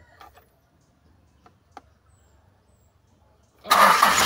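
A few faint ticks, then about three and a half seconds in the Kia Bongo's diesel engine starts up suddenly and runs loudly. This is the test start after a failed glow plug was replaced to cure its hard starting.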